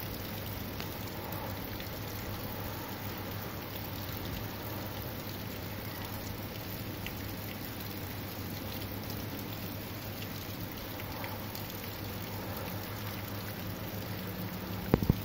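Steady rain from a thunderstorm, an even hiss with no thunder, and two quick knocks near the end.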